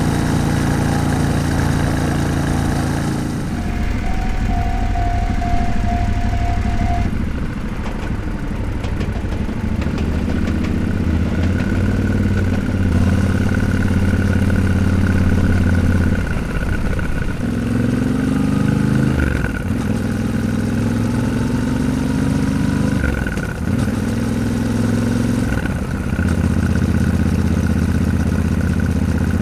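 Yamaha Ténéré 700 parallel-twin motorcycle engine running on the road, its pitch dropping and climbing again several times as the rider rolls off the throttle and shifts gears.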